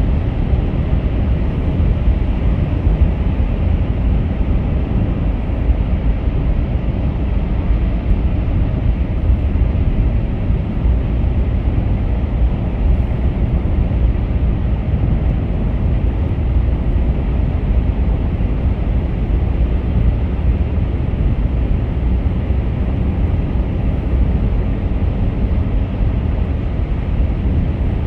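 Car driving at highway speed: a steady, loud rumble of tyres on the road, engine and wind, with no breaks or sudden sounds.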